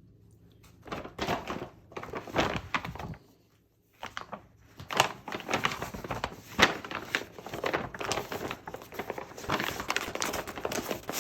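Packaging being handled and opened, with irregular crinkling and rustling that pauses briefly about three seconds in, then carries on more densely.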